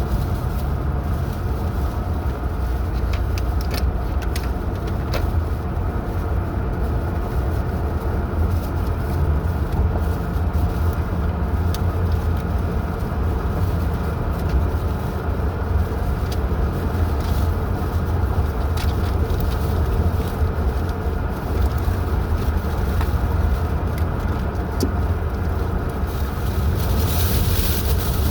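Car driving at steady speed: a continuous low rumble of engine and tyre noise, with a few faint clicks and a brief swell of hiss near the end.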